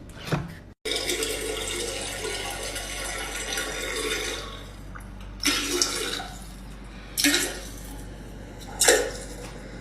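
Running water, with a few short louder bursts later on.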